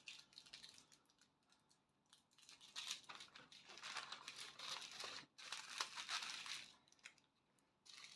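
Faint crinkling of small plastic bags of diamond-painting drills being handled and sorted, with quiet stretches in the first two seconds.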